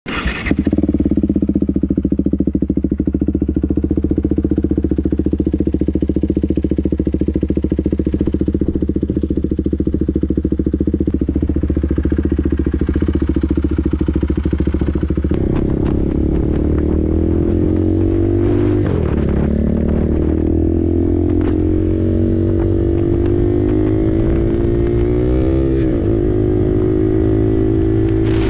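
KTM RC 390's single-cylinder engine through an aftermarket SC-Project exhaust, running at a steady idle at first. About halfway through the revs begin to rise and fall, with a couple of brief drops as it changes gear.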